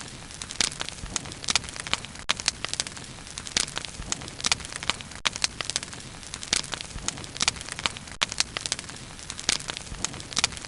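Wood bonfire burning, with frequent sharp irregular crackles and pops over a steady low rushing of the flames.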